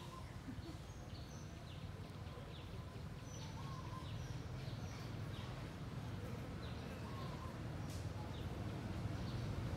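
Birds chirping repeatedly in short, high, falling notes, with a few lower whistled notes now and then, over a steady low outdoor rumble.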